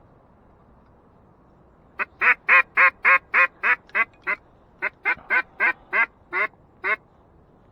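Mallard duck call blown in two loud runs of quacks, about nine quick quacks and then seven more that slow toward the end, in the cadence of a hunter's hail or greeting call.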